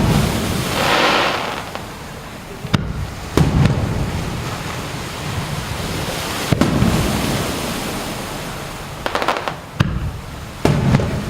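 Aerial fireworks shells bursting: about six sharp bangs, each trailed by a low rolling rumble, with two short stretches of crackling between them.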